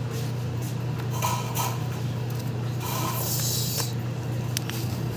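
Handling noises from removing an air conditioner's compressor: a brief hiss about three seconds in, then a few sharp metallic clicks near the end, over a steady low hum.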